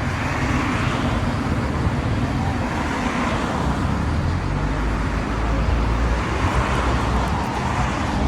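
Harley-Davidson Fat Boy's V-twin engine running with a steady low rumble, amid road traffic noise that swells a few times.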